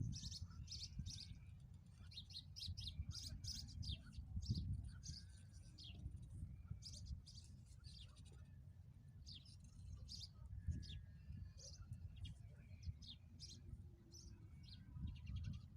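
Small birds chirping in many short, high notes, in clusters with brief gaps, over a steady low rumble.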